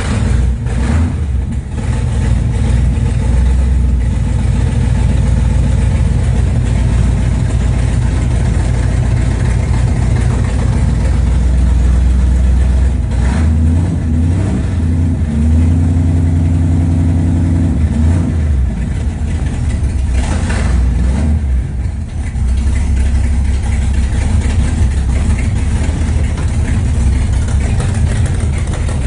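1930 Ford Model A hot rod's engine idling just after a cold start with no choke. It revs up briefly about halfway through, then settles back to a steady idle.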